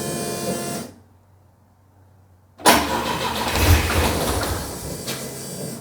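A steady whine stops about a second in. At about two and a half seconds the Volvo 142's four-cylinder engine is suddenly cranked and fires roughly for about three seconds, then stops. This is its first start on a new Speeduino engine management system, and the owner says the ignition timing is off.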